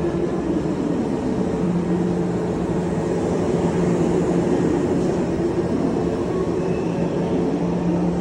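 Kintetsu electric train running, a steady rumble with a low held hum and shifting higher tones that slide up and down.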